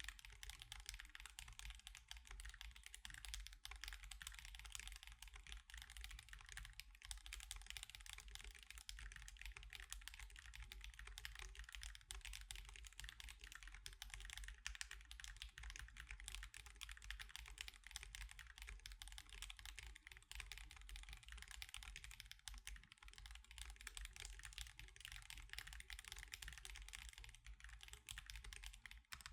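Steady, fast typing on an Akko Alice Pro mechanical keyboard fitted with Akko CS Crystal switches and osumekeys Sakura + Mochi keycaps: a dense, continuous stream of key clacks.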